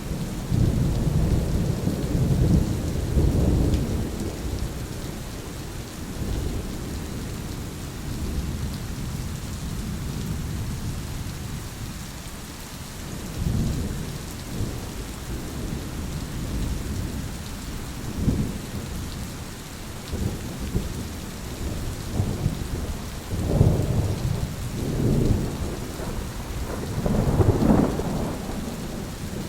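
Thunderstorm: steady rain with rolling thunder, a long rumble in the first few seconds and a string of shorter rumbles later, the loudest near the end.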